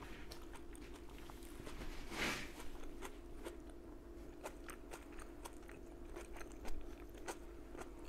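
Close-miked chewing of stir-fried vegetables: many small crunches and wet mouth clicks, with a brief hiss about two seconds in.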